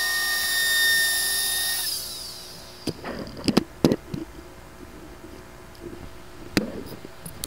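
Router with an ogee bit running at speed with a steady high whine, then switched off about two seconds in and spinning down. A few sharp knocks and clatters follow.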